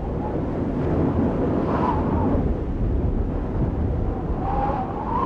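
Audience applauding and cheering, a steady dense noise with a couple of brief wavering shouts rising above it about two seconds in and near the end.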